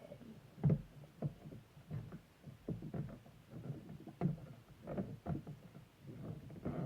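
Plastic toy parts being handled and fitted together: irregular knocks and clicks, about two a second.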